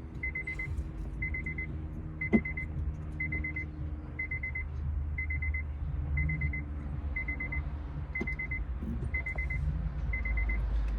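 A car's warning chime beeping about once a second, each beep a short buzzy high tone, over a steady low rumble. A single sharp click sounds a little over two seconds in.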